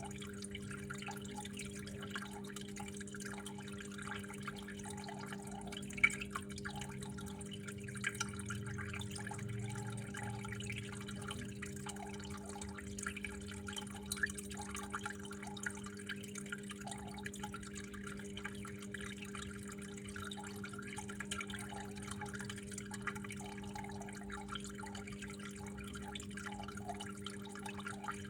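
Water dripping and trickling steadily, with a low, even hum underneath. A sharper single drip stands out about six seconds in.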